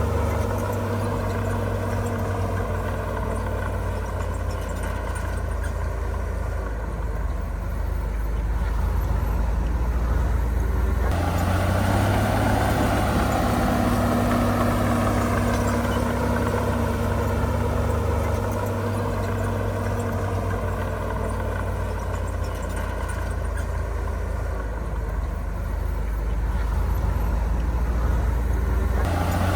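Heavy diesel engine of earthmoving machinery running steadily, its pitch drifting slowly. It gets louder and fuller about eleven seconds in, as the engine comes under more load or higher revs.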